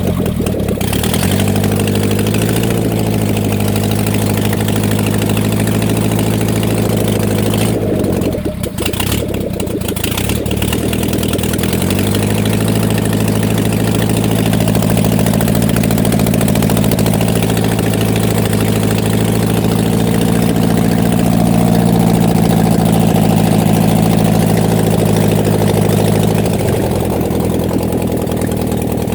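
Air-cooled MeMZ V4 engine from a ZAZ-968M Zaporozhets running at a steady idle, revived after standing about ten years. It falters about eight seconds in, its speed sagging, then picks up again and runs evenly.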